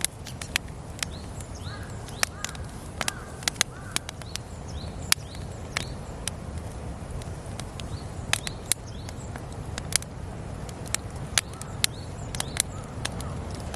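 Campfire crackling, with sharp irregular pops over a steady low noise, while birds call faintly in the background.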